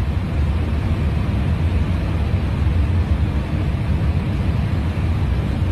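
Steady flight-deck noise of an airliner in cruise: an even rush of air with a deep rumble underneath.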